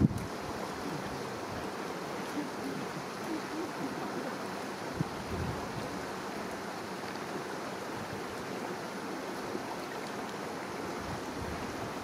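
River water flowing: a steady rushing, with a soft low thump about five seconds in.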